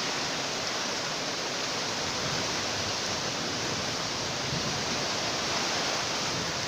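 Floodwater of a river in flash flood rushing steadily, an even roar of fast-moving water.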